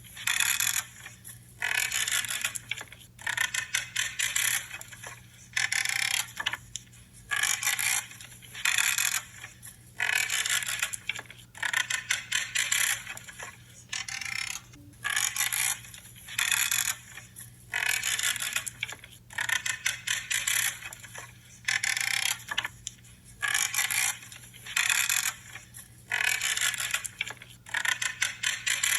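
Pruning shears cutting through branches: a creaking crunch with each cut, about one cut a second, each lasting around half a second.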